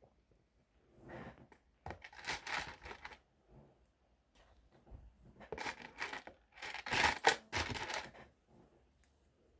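Loose plastic LEGO pieces clattering as a hand rummages through them, in two bursts of rapid small clicks and rattles: about a second in and again around five to eight seconds in.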